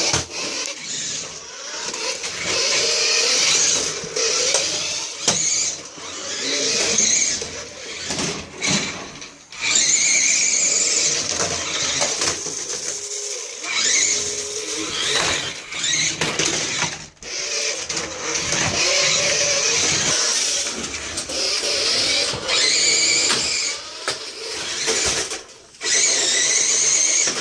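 Small electric motors and gearboxes of toy radio-controlled cars whining in repeated bursts that rise and fall in pitch as they speed up and slow down, cutting out briefly now and then.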